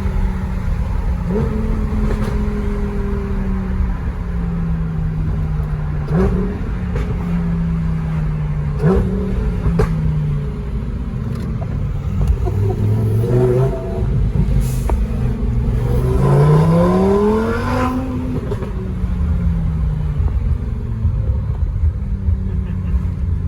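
Lamborghini Huracán Performante's V10 engine on the move. Its note sags slowly as the car eases off, with quick jumps in revs a few times. Then it climbs steadily through a hard acceleration about two-thirds of the way in, the loudest moment, and drops back after.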